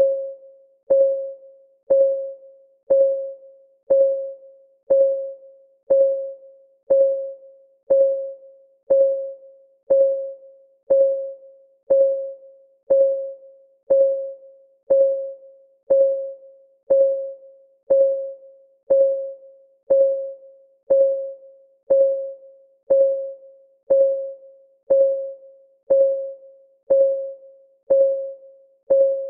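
Clock ticking sound for a countdown timer, one tick every second. Each tick is a sharp click with a short ringing tone that fades before the next.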